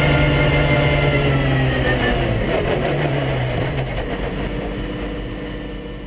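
Pagani Zonda R's V12 engine, its note slowly falling as the car slows, then running low and rough as the sound fades out near the end.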